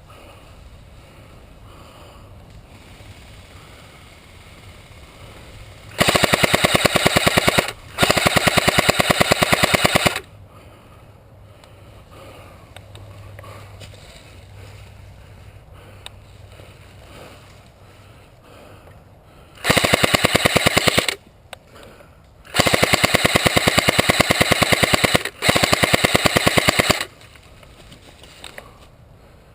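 Airsoft gun firing long full-auto bursts: five bursts of rapid, evenly spaced shots, two about six seconds in and three more from about twenty seconds in, each lasting one and a half to two and a half seconds.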